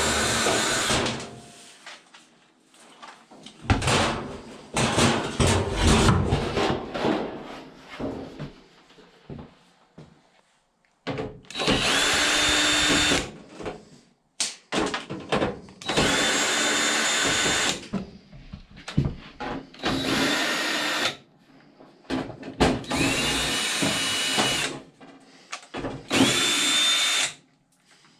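Power drill running in short bursts of one to two seconds, each spinning up into a steady high whine and stopping, about six times. Between the bursts, and for a few seconds early on, there is clatter and knocking from handling parts and tools.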